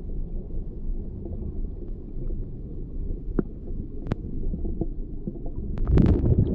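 Muffled low rumble of moving river water, heard as through a camera underwater or in a waterproof housing, with a few sharp clicks and a louder burst of splashing noise about six seconds in.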